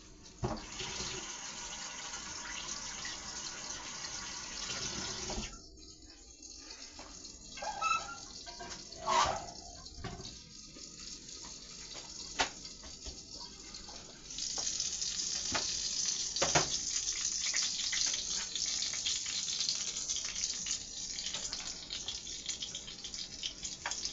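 Kitchen tap running into a sink, shut off about five seconds in, with a few sharp clinks, then running again from about fourteen seconds.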